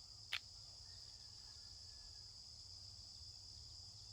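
Faint, steady high-pitched chorus of insects, crickets by their sound, with one short click about a third of a second in.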